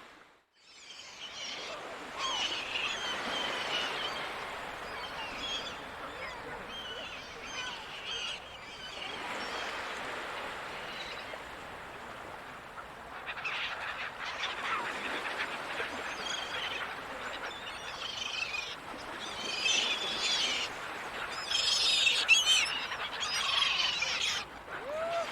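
A flock of gulls calling over one another, many short overlapping cries over a steady hiss. The calls start after a brief drop-out and are busiest about halfway through and again near the end.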